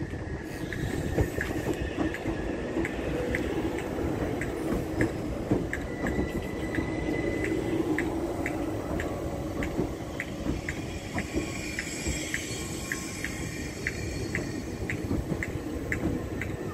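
Southern Class 377 Electrostar electric multiple unit rolling slowly along the platform: a low rumble with a steady run of light ticks, about two a second.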